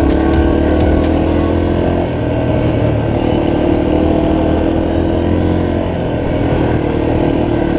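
Dirt bike engine running under way, holding fairly steady revs, easing off briefly about two seconds in and again near six seconds.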